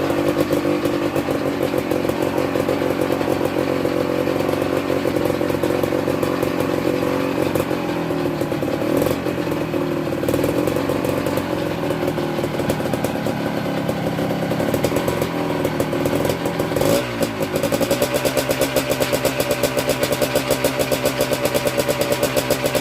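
Kawasaki KMX 125 two-stroke engine idling while it warms up after a cold start, not yet revved. About 17 seconds in, the engine speed dips briefly and comes back, then settles into a steady, more pronounced beat.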